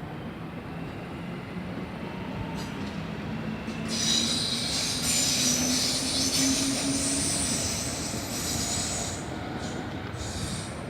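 Train moving through a station with a high-pitched metallic squeal from its steel wheels, starting about four seconds in, loudest in the middle, and dying away near the end, over a steady running rumble.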